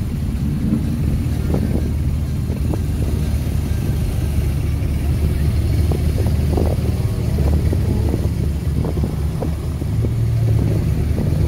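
Deep, steady engine rumble of sports cars moving at walking pace, chiefly a Lamborghini Murciélago's V12 at low revs, with a Mercedes hatchback's engine alongside. A few faint short ticks sound over the rumble.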